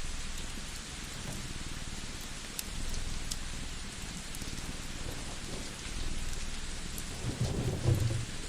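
Steady rain ambience with scattered fire crackles, and a low rumble of thunder a little after seven seconds in.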